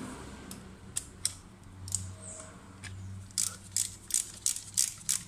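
Ratchet wrench clicking: a few separate clicks, then from about halfway a steady run of clicks, about three a second.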